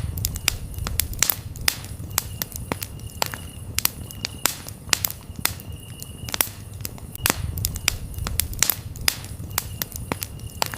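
Campfire crackling, with frequent sharp pops over a low rumble of burning wood, while a cricket trills on and off in the background.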